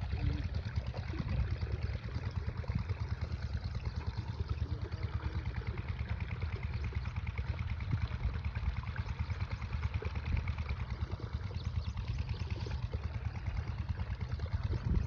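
Diesel engine of an 8 HP irrigation pumpset running steadily, with a regular low beat.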